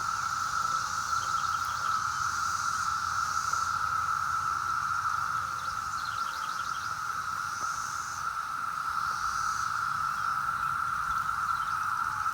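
Massed chorus of cicadas: a steady, loud, unbroken drone, with fainter higher buzzes swelling in and out over it.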